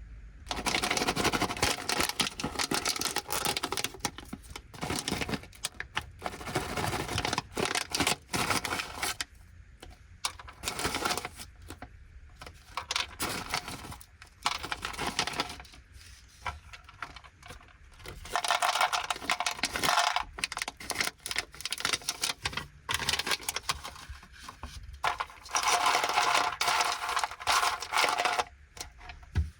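Plastic snack bags of Anpanman caramel corn crinkling as they are handled and opened, in several separate bursts of rustling with short pauses between them.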